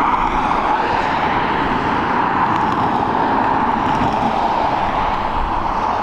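Steady jet aircraft engine noise, an even rushing sound with a hum near the middle of the range.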